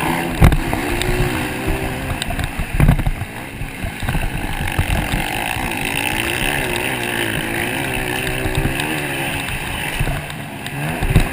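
Motocross motorcycle engines racing, their pitch rising and falling as the riders accelerate and ease off. A few short thumps break in near the start, about three seconds in, and near the end.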